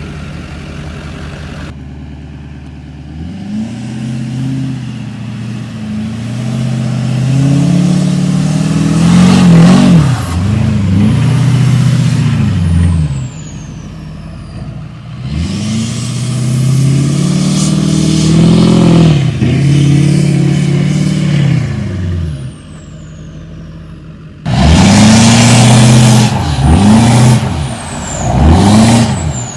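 Pickup truck engine revving up and down repeatedly, pitch rising and falling several times in each burst, heard in three separate stretches with sudden cuts between them.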